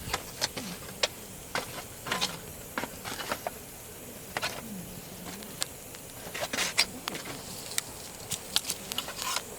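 Wood campfire crackling, with irregular sharp pops and snaps, and an insect buzzing near the microphone, its hum wavering in pitch.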